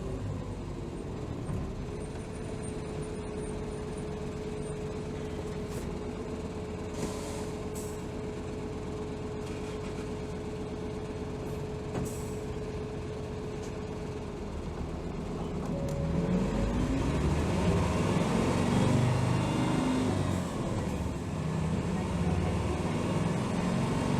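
Hino HR city bus (BDG-HR7JPBE) heard from inside: the diesel engine idles with a steady whine while standing, with short hisses of air about seven and twelve seconds in. Then the bus pulls away, growing louder as the engine pitch rises, drops briefly at a gear change, and climbs again.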